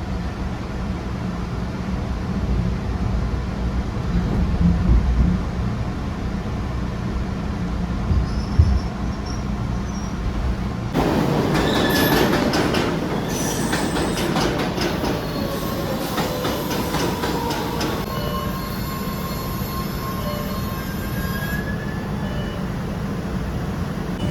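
MBTA Red Line subway train rumbling along the track. About eleven seconds in it turns louder, with wheels clacking over rail joints and squealing in tones that fall in pitch as the train slows into a station.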